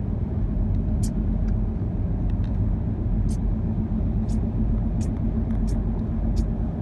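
Car on the move: a steady low engine and road rumble, with occasional faint clicks.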